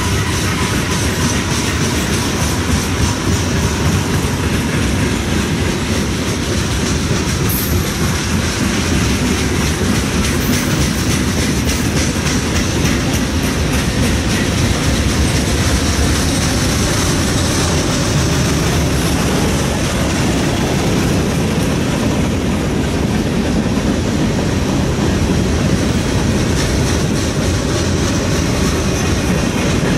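Freight train cars, hoppers and boxcars, rolling past: a steady rumble of steel wheels on rail with continuous rapid clicking over the rail joints.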